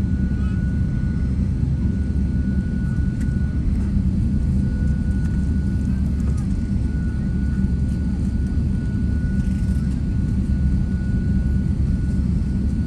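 Jet airliner engines running with a steady low rumble and a constant high-pitched tone over it.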